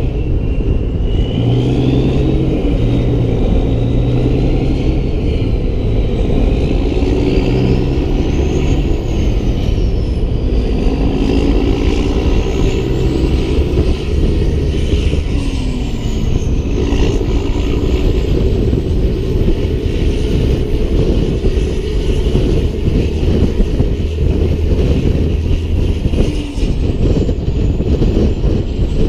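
Peterbilt 388 semi-truck's diesel engine running under load on the road, with road noise; the engine pitch rises and falls as it goes.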